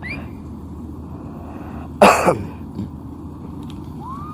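A person coughs once, loudly, about two seconds in, over a steady low engine hum.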